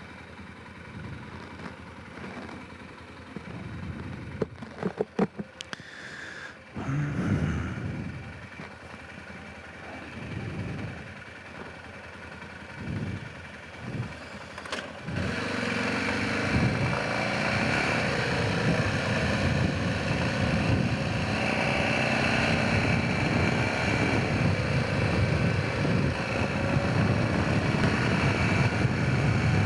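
Honda Rincon 650 quad's single-cylinder four-stroke engine running during a ride. The first half is quieter, with a few sharp knocks about five seconds in. About halfway through the engine becomes louder and steady.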